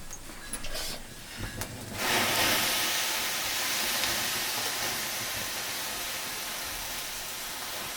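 A hiss that starts suddenly about two seconds in, loud at first and then slowly fading, preceded by a few faint clicks.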